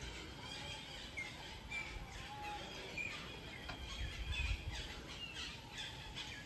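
Several birds chirping and calling in short, scattered whistled notes and quick downward chirps.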